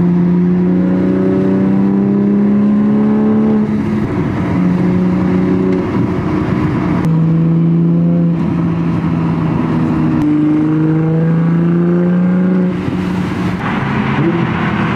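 Toyota Supra engine and Tomei exhaust under acceleration: the engine note climbs steadily in pitch and drops sharply at each upshift, about four shifts in a row.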